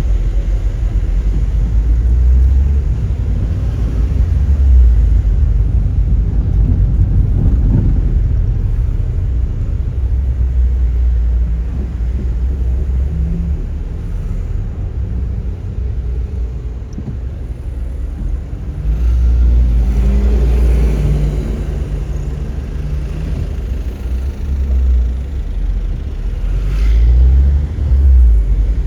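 Car driving: steady low engine and road rumble, with the engine note climbing as the car accelerates about two-thirds of the way through and again near the end.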